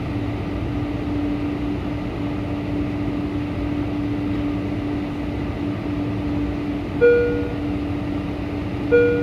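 Steady airliner cabin drone with a constant low hum inside a Boeing 747-400. Near the end, two short cabin chime tones sound about two seconds apart, the signal ahead of a seatbelt announcement.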